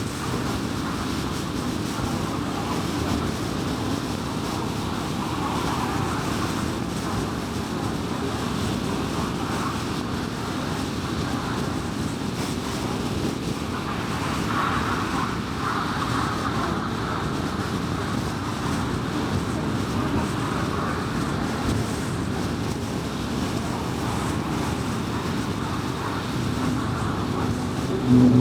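Car driving on a highway: a steady rush of road and tyre noise with engine hum, even throughout.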